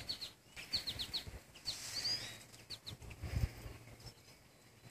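A small bird chirping: a quick run of short, high, falling chirps that thins out about three seconds in.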